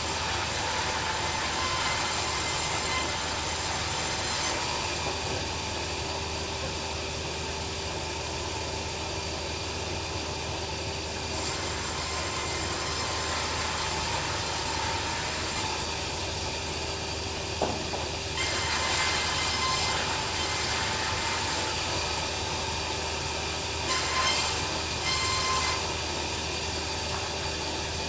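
Bandsaw sawmill running steadily, its blade cutting through timber in four stretches of a few seconds each, with the machine's steady hum between cuts.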